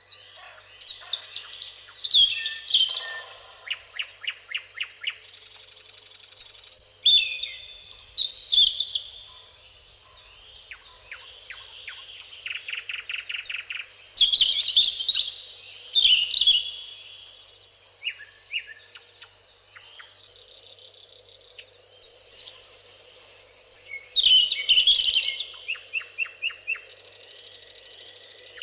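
Several songbirds singing in a summer meadow chorus: loud, quick phrases of falling whistled notes come roughly every six seconds, mixed with rapid trills of repeated notes. Short bursts of high, buzzing insect stridulation, like grasshoppers or bush-crickets, fill some of the gaps.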